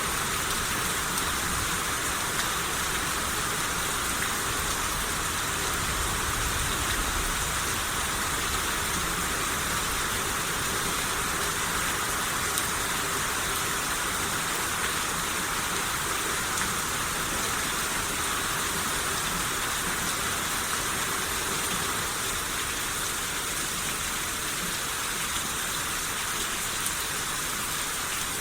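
Steady rain shower, an even hiss of falling rain with drops pattering on surfaces.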